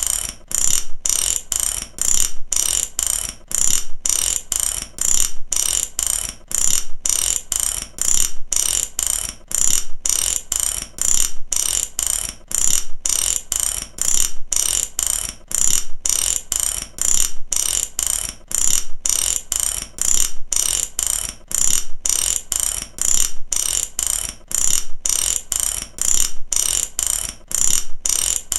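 Mechanical ratchet clicking, its pawl snapping over the teeth in a steady stream of sharp clicks that swell in runs about a second apart.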